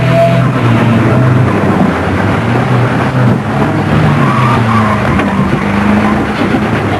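Old cars' petrol engines revving hard in banger racing, the pitch rising and falling as they are driven around.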